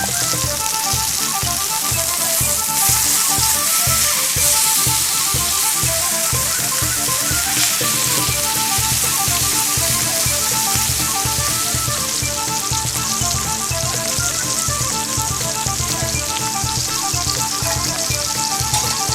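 Steak sizzling steadily in a hot frying pan over a campfire, under background music with a steady beat.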